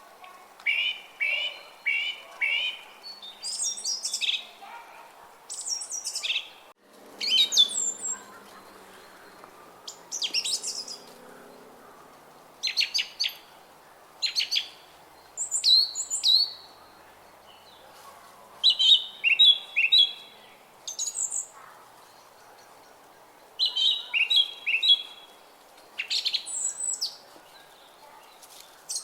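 Songbirds singing in short, bright chirping phrases every second or two, many notes sweeping quickly down in pitch, over a faint steady background noise. The sound drops out for a moment about seven seconds in.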